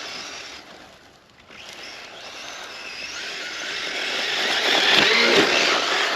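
Electric RC short course truck running at speed over sand, its brushless motor whining and tyres hissing. It fades away, then grows louder again, loudest about five seconds in.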